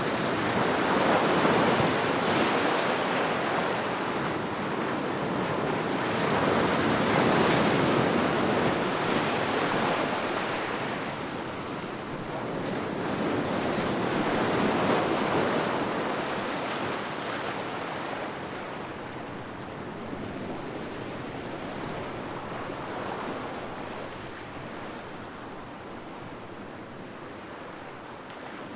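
Sea waves breaking and washing on a shore, a steady rush that swells and fades in slow surges every six or seven seconds, growing quieter toward the end.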